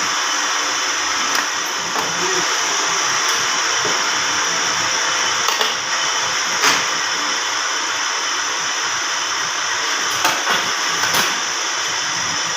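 Grinding machine running steadily on a Toyota 5L camshaft or cylinder head, with a high hissing whine and a few sharp ticks.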